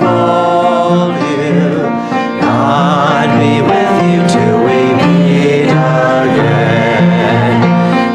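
Choir singing a slow hymn with instrumental accompaniment, long held notes with vibrato.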